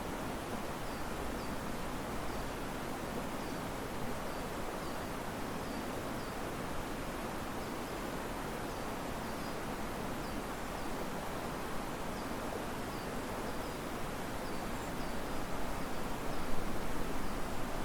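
Riverside ambience: a steady rush of river water under leaves rustling in the wind, with faint high chirps repeating throughout. The rustling swells louder near the end as the wind picks up.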